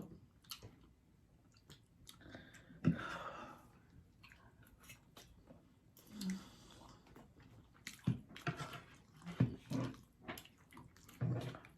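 Close-miked chewing and mouth sounds of someone eating air-fried catfish: scattered smacks and clicks with short pauses between them.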